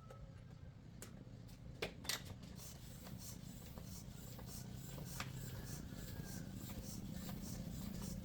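Scattered light clicks and small knocks of hand work, with sharper clicks about two seconds in and about five seconds in, over a low hum that slowly grows louder.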